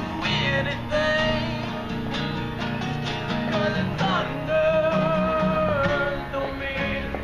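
Street musicians playing guitar with a singer.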